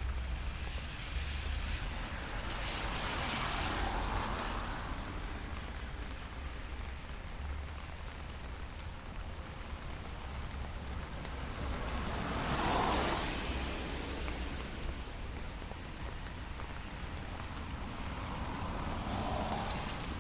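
Steady light rain on a city street, with cars passing on the wet road: their tyre hiss swells and fades three times, the loudest pass about two-thirds of the way through.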